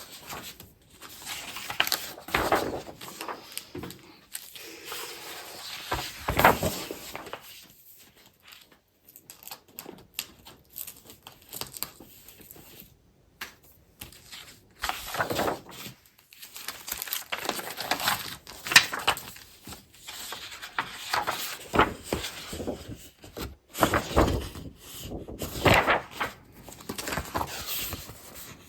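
Sheets of scrapbook paper being flipped through and shuffled, a run of irregular rustling swishes and crinkles, some sharper than others.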